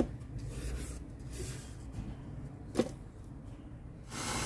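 Electric mixer beating butter and sugar, a low steady rumble with one knock, then a louder, even motor whir starting near the end.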